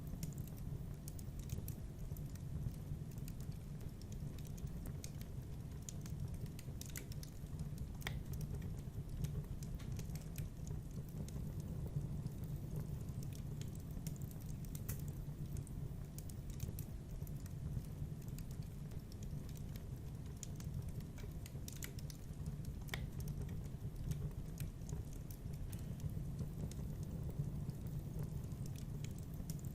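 Wood fire burning in a fireplace: a steady low rumble with scattered, irregular crackles and small pops.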